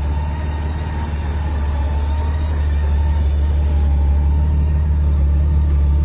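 Motorcycle engine running steadily with a strong low hum, growing gradually louder.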